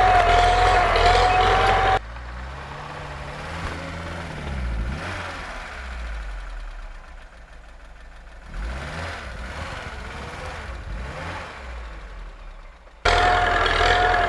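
Motor vehicle engine running with a steady whine. About two seconds in it drops abruptly to a quieter engine sound that rises and falls in pitch, and near the end the louder running with the whine returns just as abruptly.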